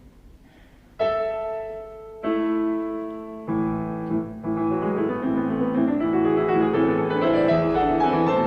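Piano introduction to a song. After a quiet first second, single chords are struck about a second apart, then a flowing accompaniment of moving notes builds from about four seconds in.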